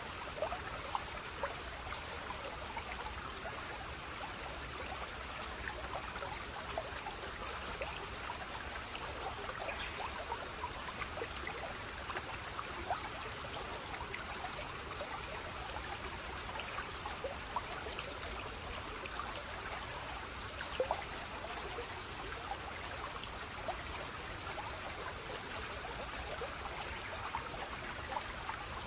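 Running water in a small stream, a steady trickling rush dotted with many quick splashes and plinks.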